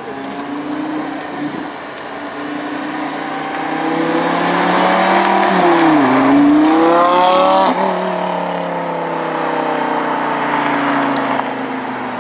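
Lamborghini Gallardo LP560-4's V10 engine on a drive-by. It grows louder as the car approaches and the pitch dips as it passes. It then revs sharply upward while accelerating away, cuts off suddenly near the eight-second mark, and fades with a slowly falling pitch.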